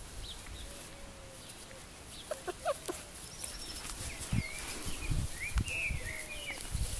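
Birds calling: short chirps and whistled glides in the second half, with a few soft low thumps.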